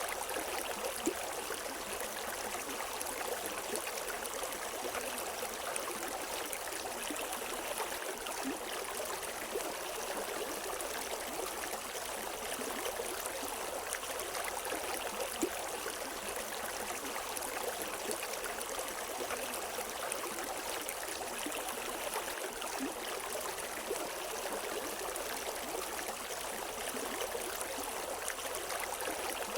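River water running steadily over rocks, an even rushing with small splashes and gurgles and no birdsong.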